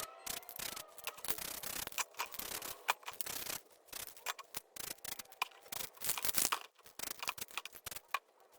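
Irregular rubbing and scraping on a spray-paint art surface, with short hissy strokes and scattered sharp clicks.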